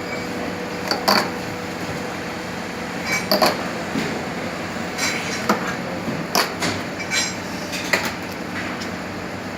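Steel mould parts and tools on a rubber-moulding hydraulic press clinking and knocking against each other, about a dozen sharp metallic clinks at uneven intervals, over a steady machine hum.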